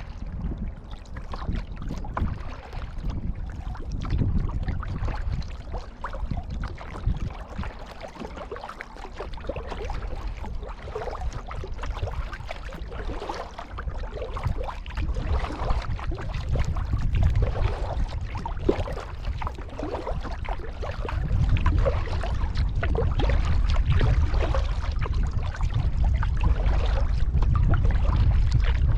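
Kayak being paddled through water, with irregular paddle splashes and water lapping against the hull. A low rumble underneath grows louder about two-thirds of the way through.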